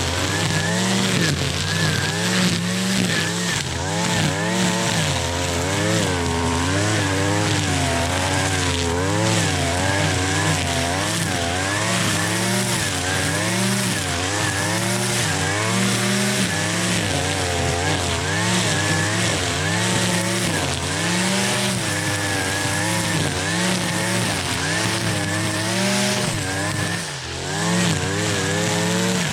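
Gas string trimmer (weed eater) engine running hard and revving up and down about once a second as its line cuts through tall grass and weeds.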